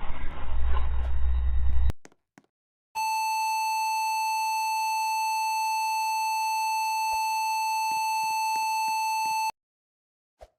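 A loud, harsh noise cuts off about two seconds in. After a short silence comes a steady, unbroken electronic beep tone at one pitch, lasting about six seconds, and then it stops abruptly.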